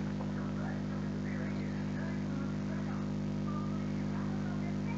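Steady low electrical hum with faint, indistinct background sounds over it.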